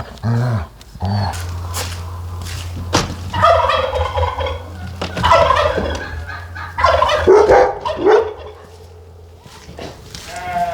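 Turkey gobbling three times, each a rapid rattling call about a second long, over a steady low hum.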